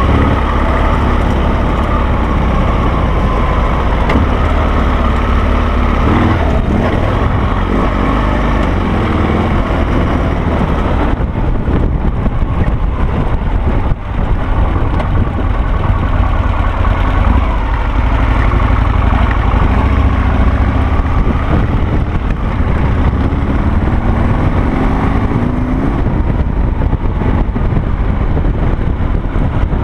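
Harley-Davidson Sportster V-twin engine of a Carducci SC3 dual-sport motorcycle running while riding, its pitch rising and falling with the throttle; the level dips briefly about 14 seconds in.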